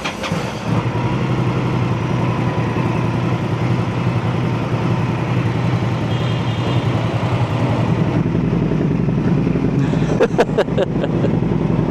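Indian Scout Rogue's V-twin engine running steadily through a Jekill and Hyde electronically valved aftermarket exhaust, with a deep exhaust note. A few sharp clicks come about ten seconds in.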